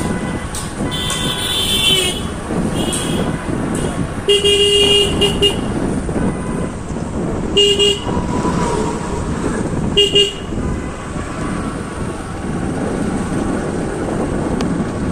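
Vehicle horn honking about five times, some blasts short and one lasting about a second, over the steady running and wind noise of a motorcycle ride on a road.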